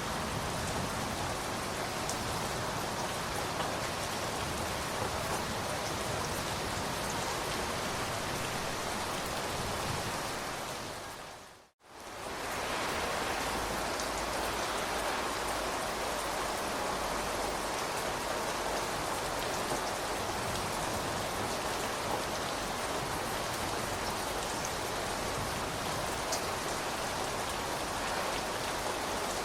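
Steady rain falling, a dense even hiss of raindrops with faint scattered drop ticks. About a third of the way through it fades to silence for a moment and fades straight back in, a splice between rain recordings.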